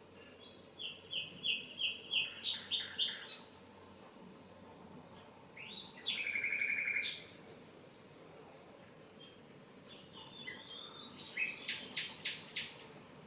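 Common nightingale singing in separate phrases with pauses between them. A run of repeated notes that speeds up comes first, then a steady trill held for about a second and a half, then another run of rapid repeated notes.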